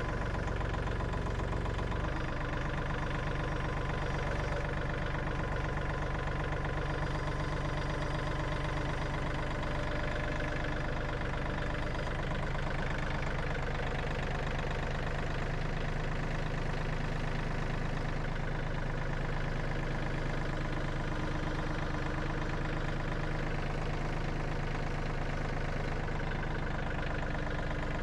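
An engine running steadily, its low note shifting slightly about two seconds and again about twelve seconds in.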